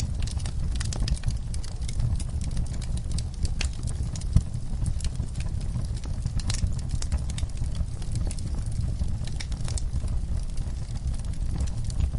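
Wood fire burning in a fireplace: irregular crackles and snaps over a steady low rumble of flames, with one sharper pop about four seconds in.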